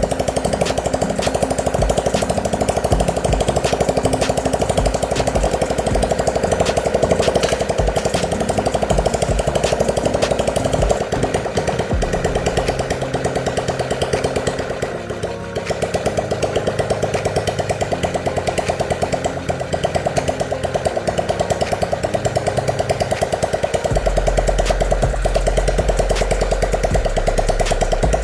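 A machine running steadily with a rapid, even pulse, dipping briefly about halfway through.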